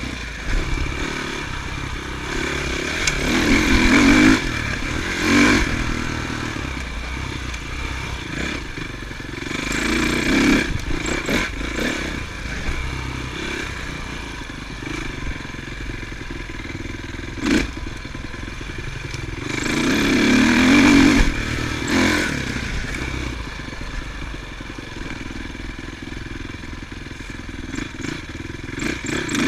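Motocross motorcycles riding on a dirt track. The engine noise swells loud three times as bikes pass close, then fades between passes.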